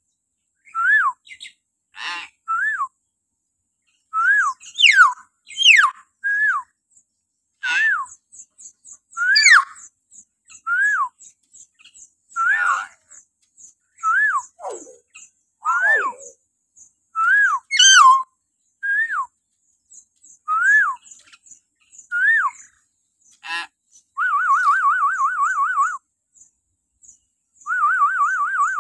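Hill myna calling in shrill whistles, each a short note that sweeps up and drops back, about one a second. Near the end come two longer, rapidly wavering warbled trills.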